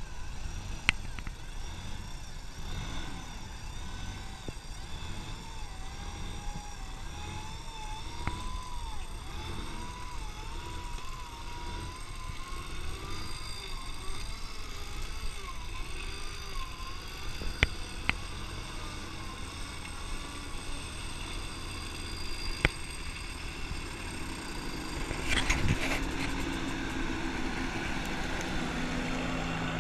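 A vehicle engine heard from outside, its revs wavering up and down unevenly, with a few sharp knocks and a louder burst of noise near the end.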